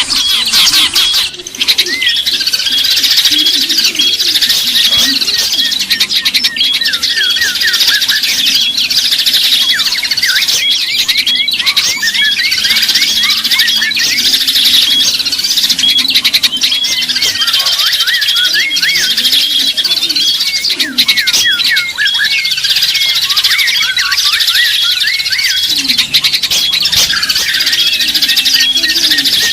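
Dense chorus of many small songbirds chirping and twittering together, quick rapid notes overlapping without pause: a bird-lure (pikat) call recording.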